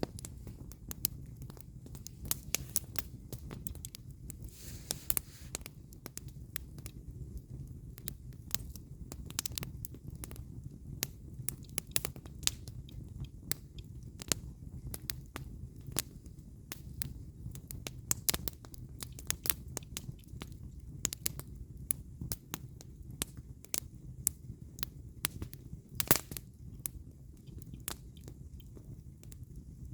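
Firewood burning in a campfire, crackling and popping with many sharp, irregular snaps over a steady low rumble of the flames. One louder pop comes about 26 seconds in.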